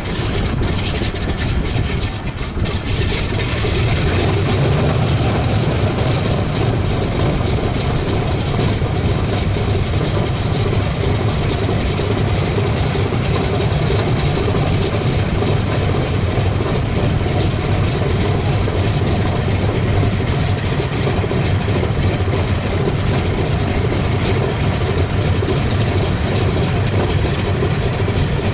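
Republic P-47D's Pratt & Whitney R-2800 eighteen-cylinder radial engine running at low power on the ground. The sound builds over the first few seconds, then holds steady.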